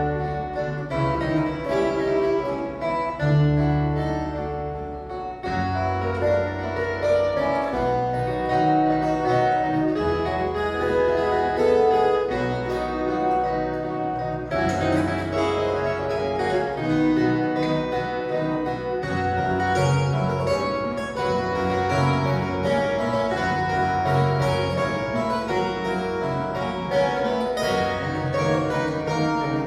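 An ensemble of violas caipiras, the ten-string Brazilian folk guitars, plays a folia de reis tune: bright plucked chords and melody over low bass notes that change every second or two.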